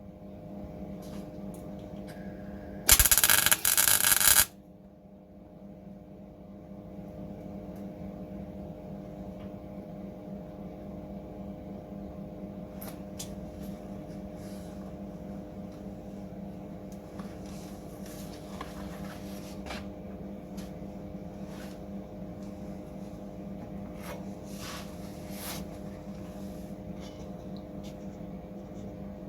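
Workshop hum with a loud crackling welding burst about three seconds in, a second and a half long with a short break, like a couple of quick welding tacks on car body steel. After it come light metallic taps and clicks.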